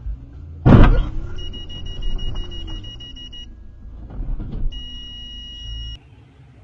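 A car collision recorded by a dashcam over the vehicle's rumble: one loud bang, then a steady high electronic beep tone for about two seconds, a smaller knock, and the tone again briefly before the sound cuts off abruptly.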